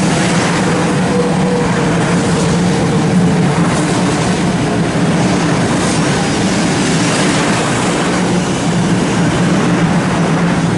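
500 series Shinkansen electric train running: a loud, steady rail noise over a low hum, with a faint tone that slides slightly down in the first few seconds.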